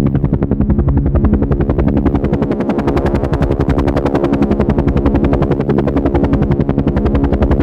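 Helicopter main rotor beating in a fast, even chop over a steady low engine drone, holding a constant speed.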